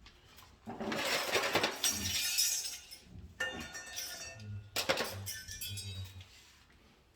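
Small hard parts rattling and clinking against each other in a dense clatter, with a brief ringing in the middle and another clatter about five seconds in.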